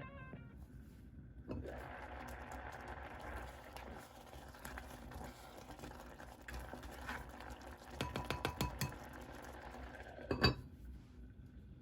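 Kitchen utensils stirring and scraping in cookware, with scattered clinks, a quick run of clinks about eight seconds in and one sharp knock near the end.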